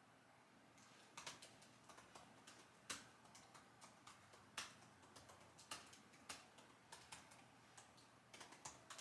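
Typing on a computer keyboard: quiet, irregular keystrokes starting about a second in, with a few louder strokes among them.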